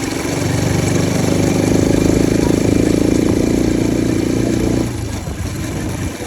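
Bajaj Pulsar RS 200's single-cylinder engine, running without its air filter, revved up from idle and held at raised revs for about four seconds, then dropped back to idle near the end.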